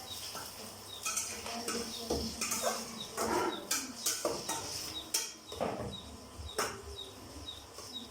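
Spoon scraping and stirring onions frying in a cooking pot: an irregular string of scrapes and knocks over a hiss of frying.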